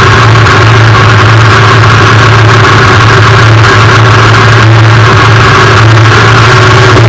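Twin-turbo Camaro drag car's engine idling loudly and steadily, heard from inside the car, with a deep hum under it and no revs.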